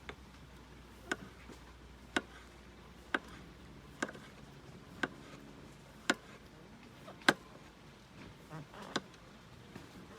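A series of sharp knocks, about eight of them, roughly one a second over a low steady background.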